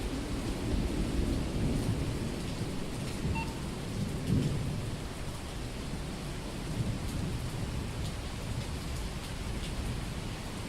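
Heavy summer rain pouring steadily on a street, with rolling thunder rumbling low underneath. The thunder is loudest about four seconds in, then eases off.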